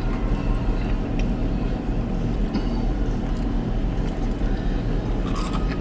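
Steady low hum of a car's idling engine and air conditioning, heard inside the cabin, with a few faint clicks.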